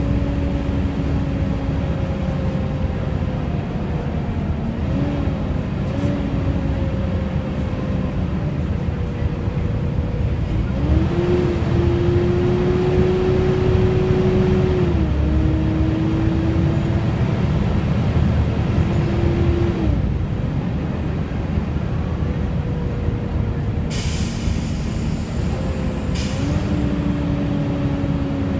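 Volvo B7TL bus running under way, its engine cooling fan whining loudly like a hoover over the engine and road rumble, the whine climbing and falling with engine speed. Two short hisses of compressed air sound near the end.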